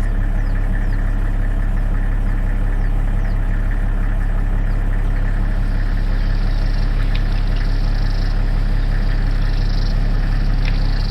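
Engine idling steadily: a loud, even low hum that cuts off abruptly at the very end.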